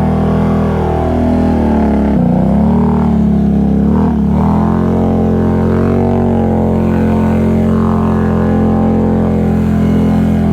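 ATV engine running with a steady drone, its revs dipping and picking back up about two seconds in and again about four seconds in.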